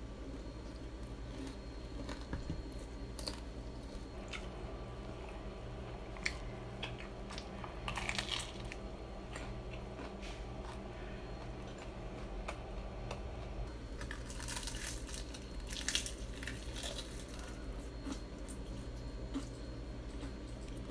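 Close-miked biting and chewing of crispy fried chicken, with crunches from the coating that come thickest about eight seconds in and again in a run a few seconds before the end, over a low steady hum.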